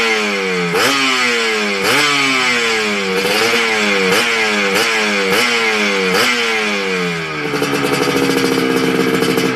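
Yamaha RXZ two-stroke single-cylinder engine breathing through a stock-looking racing exhaust, revved in about seven quick throttle blips, each rising sharply and falling back. Near the end it settles into a steady, pulsing idle.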